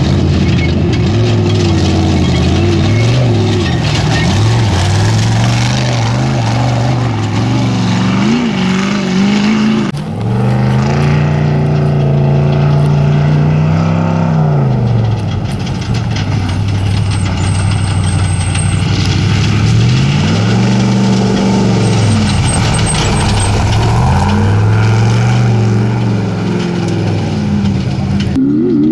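Off-road race truck engines revving hard, the pitch repeatedly rising and falling as the vehicles accelerate and lift off, with an abrupt change in the sound about ten seconds in.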